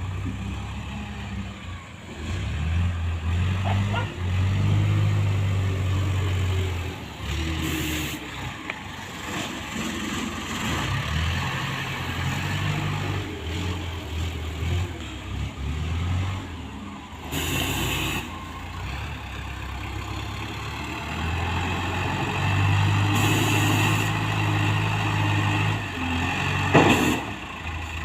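A loader's engine revving up and falling back again and again as it works, scooping cassava roots. Several short hissing bursts cut in across it.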